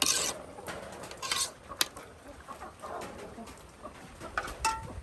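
A few short hissing bursts and sharp clicks, with a short clucking fowl call near the end.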